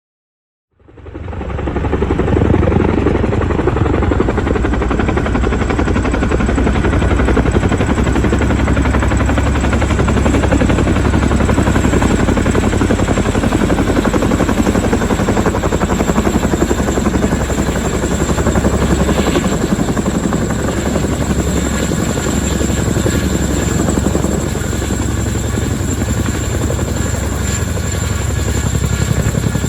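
Boeing CH-47 Chinook helitanker, its tandem rotors and turbine engines giving a loud, steady rotor noise with a high steady whine. It fades in about a second in.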